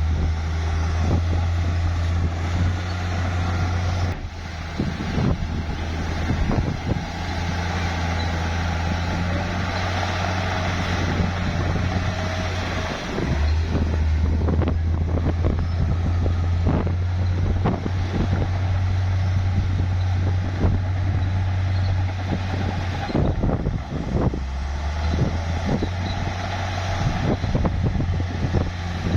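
Bulldozer's diesel engine running hard, a steady low drone that dips briefly a few times, with scattered clanks and knocks from the machine working.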